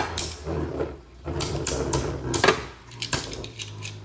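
Beyblade Burst spinning tops battling in a plastic stadium: a steady low whir of the spinning tops, broken by a string of sharp plastic clacks as they collide.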